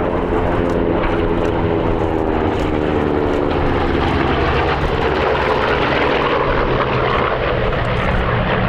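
Piston-engined propeller warbird passing in a display. Its engine note falls slowly in pitch over the first few seconds as it goes by, then turns into a rougher rush of engine and propeller noise.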